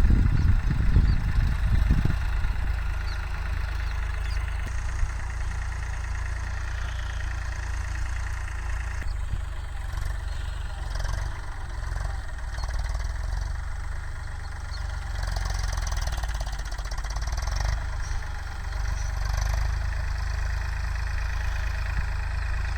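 Sonalika tractor's diesel engine running steadily at low speed, louder and rougher for the first two seconds.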